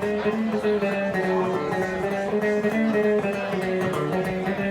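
Live rockabilly band playing an instrumental passage between verses: electric guitar and bass over a steady drum beat, no vocals.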